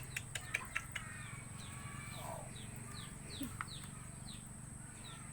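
A small bird chirping over and over, each chirp a quick falling note, about three a second in the second half. A few sharp clicks come in the first second, over a steady low hum.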